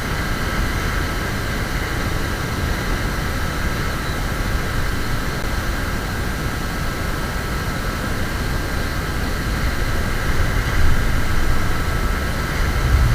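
Strong wind buffeting the microphone, a steady low rumble that swells slightly near the end.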